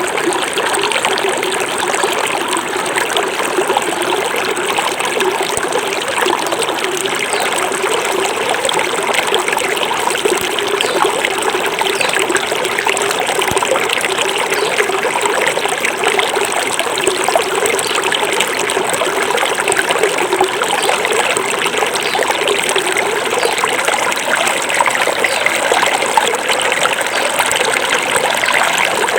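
Small forest stream running over stones: a steady babbling and trickling of flowing water.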